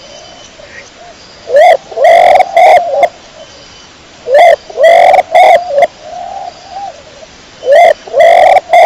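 Domestic pigeon cooing, loud and close: three bouts of several quick coos that rise and fall in pitch, each bout about a second and a half long, with short pauses between.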